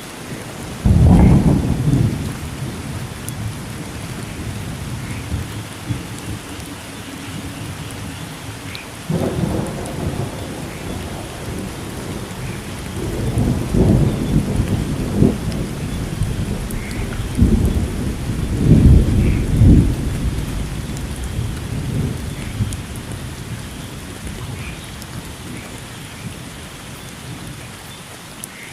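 Steady rain falling, with thunder. A sudden loud clap comes about a second in, followed by further rolling rumbles through the middle that die away near the end.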